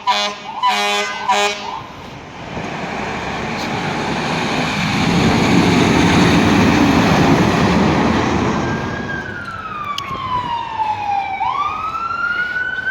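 Fire truck responding: a few short air-horn blasts, then the truck passing with a swell of engine and road noise that peaks and fades. Then a siren wail that falls and sweeps back up.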